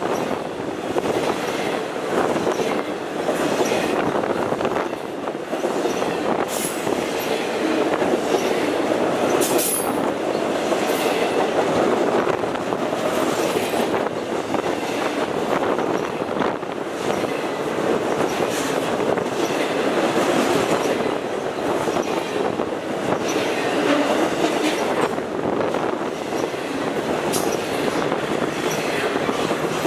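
Long intermodal freight train of truck trailers on flatcars passing at close range: a steady rumble and rattle of steel wheels on rail, with scattered clicks and clanks and a couple of brief high-pitched wheel squeals.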